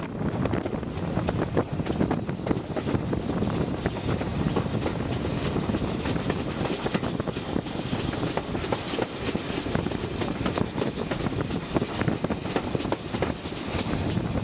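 Heritage train running along the line, heard on board: a steady rumble of the moving train with many small clicks of the wheels over the rails, and some wind on the microphone.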